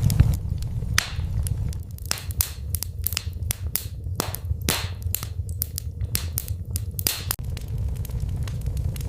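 Wood fire crackling in a fireplace: sharp pops and snaps over a steady low rumble of the flames. The pops come thickest in the middle.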